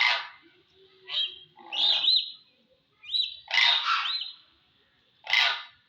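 Crane calling: a series of loud, harsh calls about once a second, with short high chirps in between.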